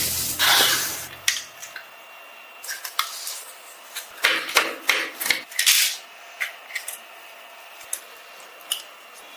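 Music ending about a second in, then scattered small clicks, taps and brief scrapes of hands and tools working on a small scale model car.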